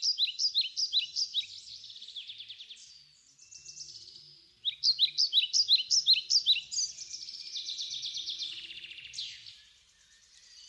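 Songbirds singing: rapid runs of short, sharply falling chirps repeated several times a second, in two bursts with a pause between, then fading out near the end.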